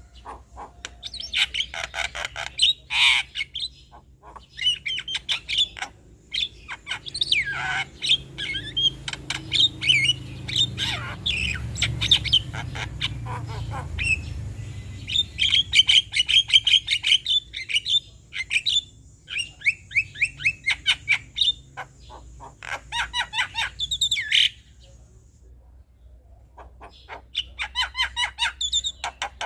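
Male Javan myna (jalak kebo) singing a long chattering song: fast runs of clicks and harsh notes mixed with whistled phrases, broken by short pauses and one longer gap near the end.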